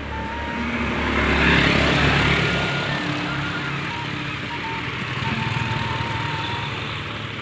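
Motor vehicle engine and road noise swelling to a peak about a second and a half in, then easing off as it passes, under background music with held notes.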